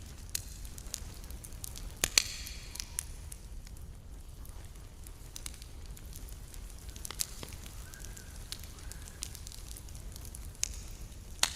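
Wood fire burning: irregular sharp crackles and pops, the loudest a quick pair about two seconds in and another near the end, over a steady low rumble.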